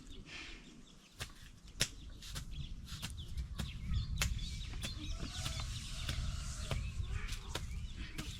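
Chickens and small birds calling faintly, over a series of short knocks and clicks and a low rumble that sets in about a second and a half in.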